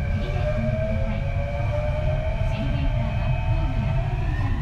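Kintetsu 3220 series electric train heard from on board, its Hitachi IGBT inverter and traction motors giving a whine that rises slowly in pitch over a steady heavy rumble of the running gear, as the train picks up speed.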